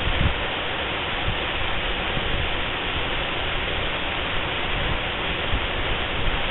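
Waterfall pouring steadily: a dense, unbroken rush of falling water with a low rumble beneath.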